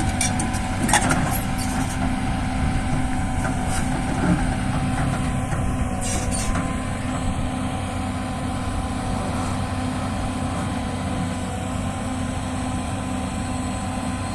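Heavy forestry machine's diesel engine running steadily, with a few sharp clicks and knocks in the first two seconds and again about six seconds in.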